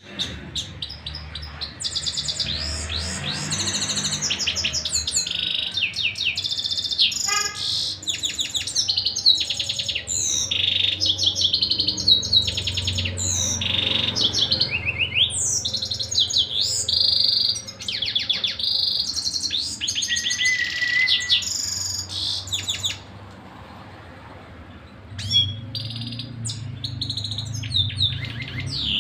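Domestic canary in full song: long runs of fast trills and rolls, with repeated high chirps. The song breaks off for about two seconds near the end, then starts again.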